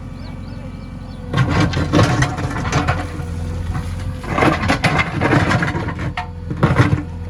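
JCB 3DX backhoe loader's diesel engine running steadily, then from about a second in working louder under load, with irregular clattering and scraping knocks that come and go in bursts.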